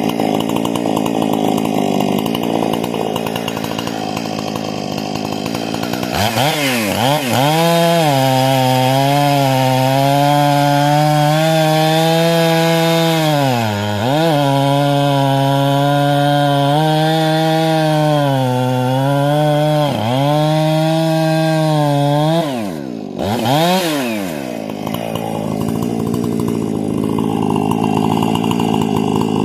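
Husqvarna 460 two-stroke chainsaw with a modified carburetor and muffler, running at low speed, then revved up to full throttle about six seconds in. It holds a high, steady whine with a few short dips in pitch, then drops back near the end after one more quick rev.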